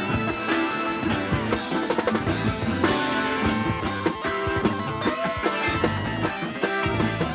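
Instrumental rock music with drum kit, guitar and bass, the drums keeping a steady beat.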